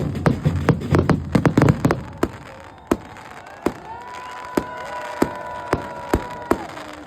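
Fireworks display: a dense barrage of bangs and crackles with a low rumble for about two seconds, then single sharp reports roughly every half second. A steady whistle-like tone sounds over the reports in the second half and drops away about a second before the end.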